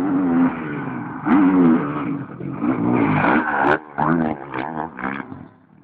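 Motocross bike engine revving in repeated surges, the pitch climbing and dropping as the throttle opens and shuts, with a brief cut near the middle and fading near the end.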